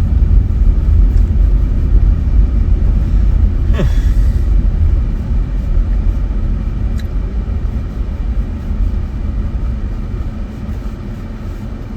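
A car driving, heard from inside the cabin: a steady low rumble of engine and tyres. A brief falling squeak comes about four seconds in.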